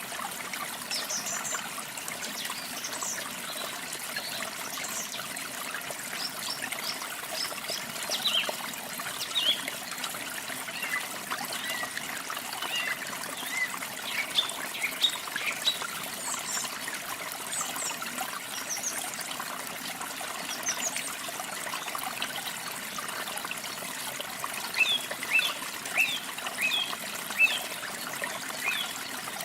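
Small songbirds chirping and twittering in short, high calls over a steady trickling stream of water, the chirps thickening near the end.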